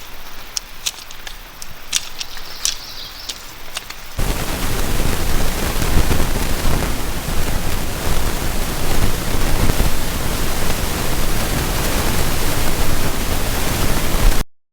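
Quiet outdoor ambience with scattered light clicks and ticks, then, about four seconds in, a sudden switch to heavy steady rain: a loud, dense, even hiss that cuts off abruptly just before the end.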